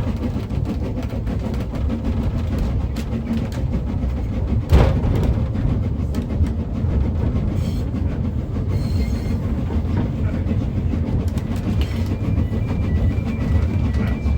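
Narrow-gauge railway carriage running along the track with a steady low rumble and wheels clicking over the rail joints. There is a single loud knock about five seconds in, and faint short high squeals near the end.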